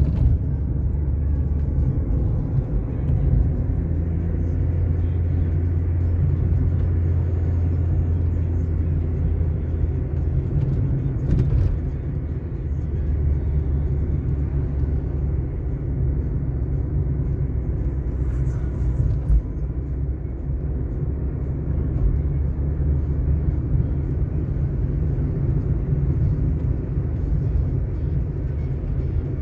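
Car driving at steady speed: a continuous low rumble of engine and tyres on asphalt road.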